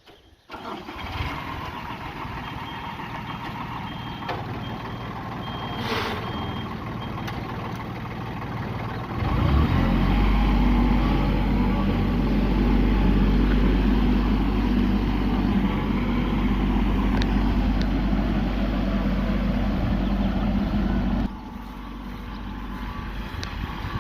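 Engine of a garden tiller starting up and running steadily. About nine seconds in it runs louder and deeper, as when it is throttled up or working the soil, then drops back to a lighter running sound about twenty-one seconds in.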